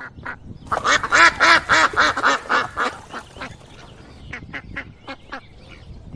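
Duck quacking: a quick run of loud quacks about a second in, trailing off into fainter, scattered quacks.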